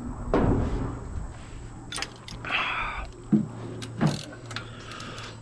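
Scattered clicks, knocks and scuffs of tools and metal parts being handled during an oil change on an old excavator, with a brief hiss partway through, over a steady low hum.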